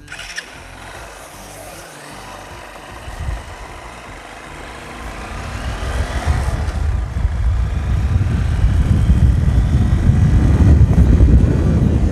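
Honda CB Unicorn Dazzler motorcycle on the move, its engine and wind rumble building and getting much louder from about five seconds in as the bike picks up speed.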